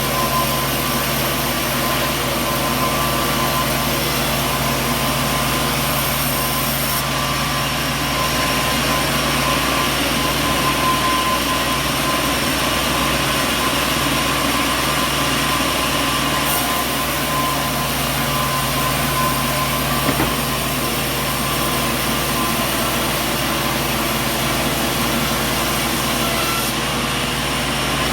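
Sawmill machinery running steadily: a constant engine-like drone with a steady high whine, with no cutting surges or impacts.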